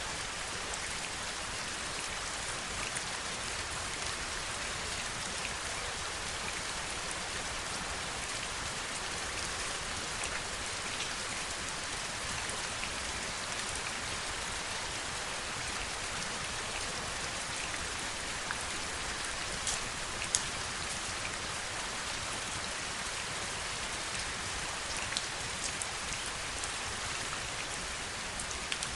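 Heavy rain falling steadily, an even hiss with scattered sharper drop hits, a couple of louder ones about two-thirds of the way through.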